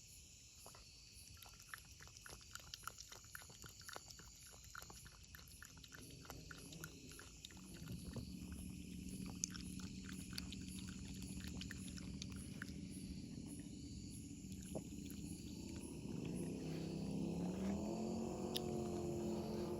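A cat eating, with quick small crunching clicks; from about eight seconds in a steady low hum rises beneath it and begins to waver near the end.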